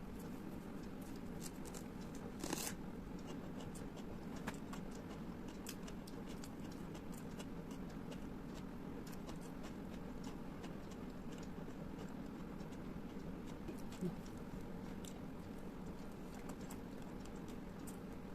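Eating sounds heard up close: scattered soft clicks and smacks of chewing, with a sharper click about two and a half seconds in and another near fourteen seconds, over a steady low hum.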